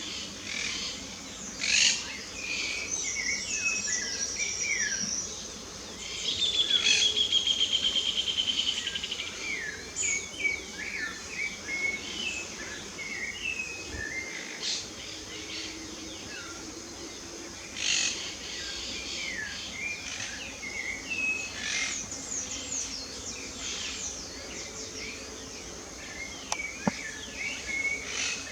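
Several songbirds singing and calling together in a busy mix of short chirps and whistled notes. About six seconds in, one bird gives a loud, fast trill lasting a few seconds, the loudest sound here.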